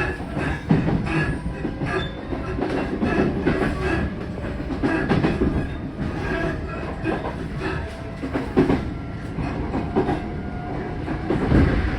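Running sound inside an Odakyu 4000 series electric commuter car on the move: a steady rumble of wheels on rail, with clacks as the wheels pass over rail joints and a few faint steady whines.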